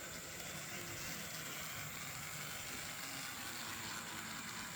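Model Queensland Rail 1720 class diesel locomotive's electric motor and wheels running steadily around the track, a continuous mechanical running noise. The model runs noisier than it should, which the owner thinks he can remedy.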